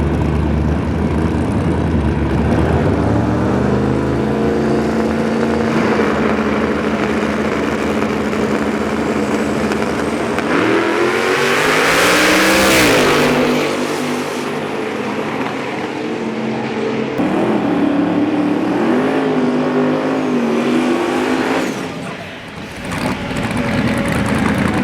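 Drag race car engines running at the track. About ten seconds in, one revs up with a rising pitch, loudest around twelve seconds, then falls away. Later an engine revs unevenly up and down.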